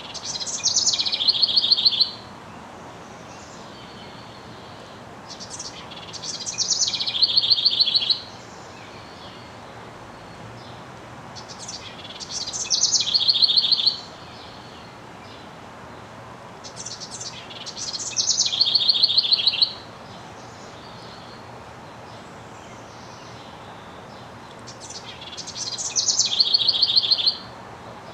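Male house wren singing five songs, about six seconds apart. Each song is a high, rapid run of notes about two seconds long that grows louder and ends in a fast trill.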